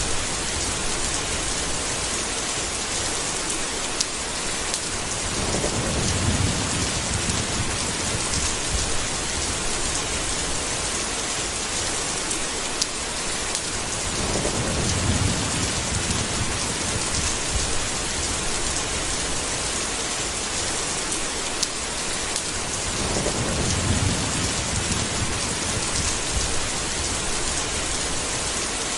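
Steady heavy rain, with three low rolls of thunder about nine seconds apart and a few sharp drip taps.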